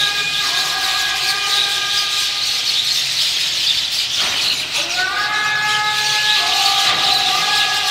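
Dense chattering chorus of a large flock of birds. Several steady held tones run over it, break off a little after four seconds in and resume about a second later.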